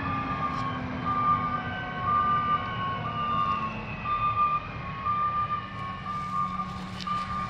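A repeating electronic beeping tone, about two beeps a second, stepping slightly between two pitches, over a steady low hum.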